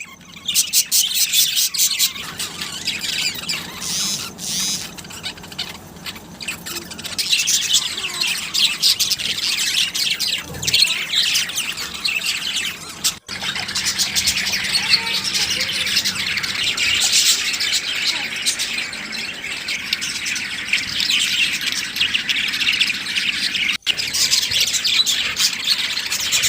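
A flock of small birds chattering together, a dense continuous mix of chirps and squawks, with two brief drop-outs.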